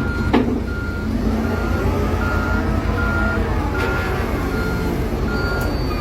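Truck's reversing alarm beeping steadily, about one beep every three-quarters of a second, over the truck's engine running as it backs up slowly. A sharp click comes about a third of a second in.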